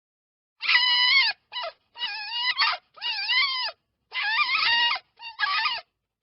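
A series of about six high, wavering animal calls, each under a second long with short gaps between them, starting just under a second in.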